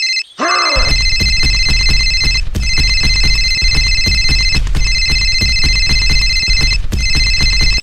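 Electronic phone-style ringing: a steady high ringing tone, broken by short gaps about every two seconds. Background music with a fast, busy beat comes in about a second in.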